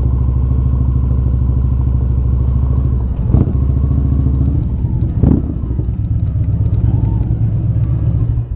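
V-twin motorcycle engine running steadily under way at low speed, with two brief knocks about three and five seconds in.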